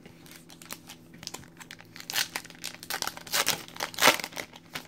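A Topps Chrome trading-card pack wrapper being torn open and crinkled by hand, a run of crackling with louder rips about two, three and a half and four seconds in.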